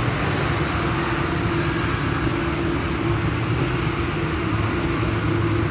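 Steady workshop machinery noise: a constant rush of air over a low, even hum, with no change.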